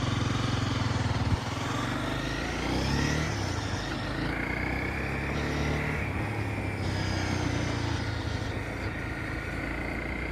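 Motorcycle engine running on the move, with a sudden drop in level about a second and a half in, after which it runs on steadily.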